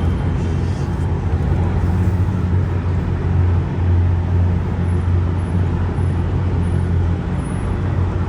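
Car driving at highway speed: a steady low engine and road drone.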